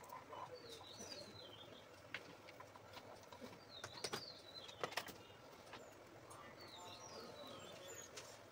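Faint birds chirping in the background, in a few short phrases of quick up-and-down chirps, with a few light clicks in between.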